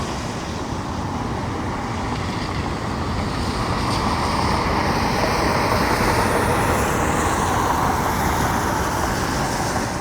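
Jet airliner engines passing close on approach, the noise swelling to a peak a few seconds in, then easing with a falling sweep in pitch.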